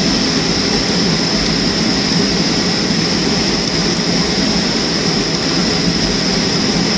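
Steady cabin noise of a Boeing 737-300, heard from inside the cabin: an even rush of engine and airflow with a constant high hiss.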